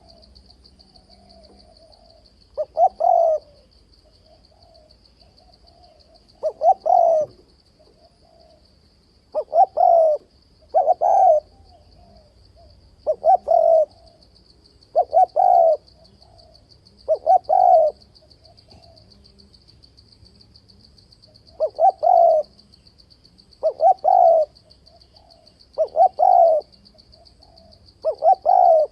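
Spotted dove singing its cooing territorial song, short multi-note phrases repeated about every two seconds with one longer pause midway: the provoking call used to lure wild doves into a fight trap. A steady, fast-pulsing high trill runs underneath.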